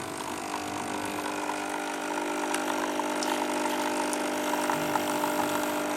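The vibratory pump of a Krups KP 1002 capsule coffee machine running with a steady buzzing hum and faint crackling ticks, pumping water while the machine leaks.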